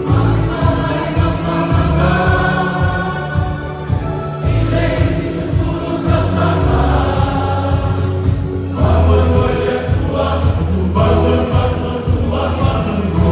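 Choir singing a gospel song with instrumental backing and a strong, steady bass line.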